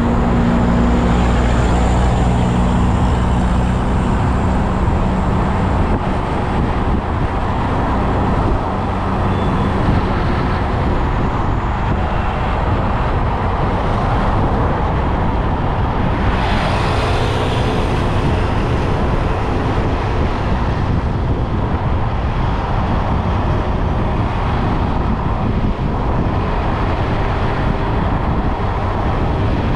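Motorbike on the move through traffic: steady wind and road noise over the engine's low hum, with a brief louder hiss about halfway through.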